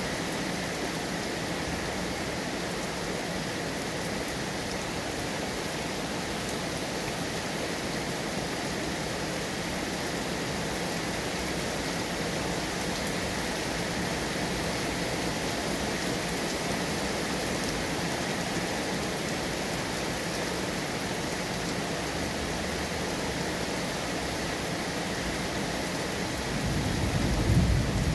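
Steady rain falling, an even hiss. Near the end a low rumble of thunder starts to build.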